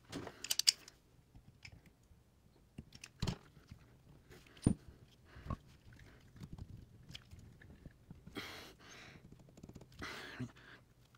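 Metal motorcycle brake caliper parts being handled and worked together, with the greased caliper slide wiggled into place: scattered small clicks and knocks, a quick cluster at the start, then two short scraping sounds near the end.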